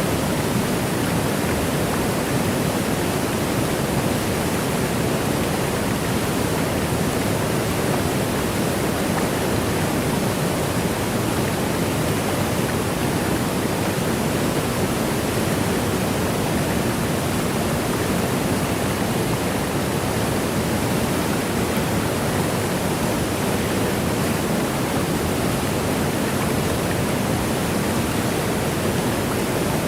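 Waterfall rushing steadily, an unbroken, even rush of falling water that is fullest in its lower tones.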